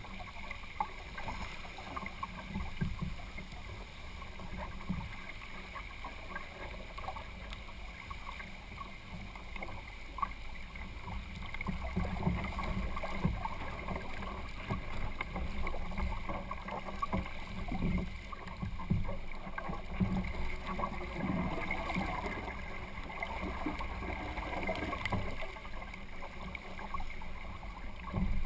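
Water sloshing and splashing against a sailing kayak's hull as it moves, irregular splashes over a steady low rumble.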